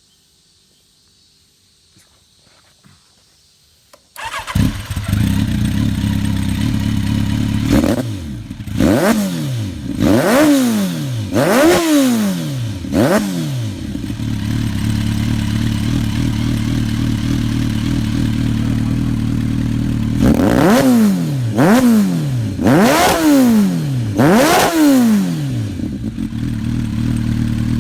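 Kawasaki Ninja 900R's inline four-cylinder engine starting about four seconds in and idling loudly through a loud exhaust, blipped sharply five times and then, after a stretch of steady idle, four more times.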